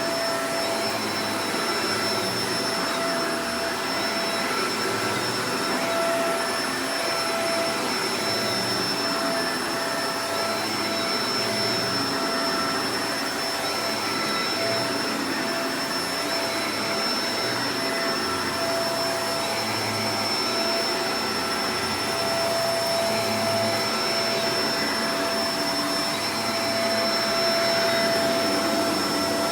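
Shark Professional Powered Lift-Away DLX (NV586) upright vacuum cleaner running steadily: a constant rush of air with a steady motor whine over it.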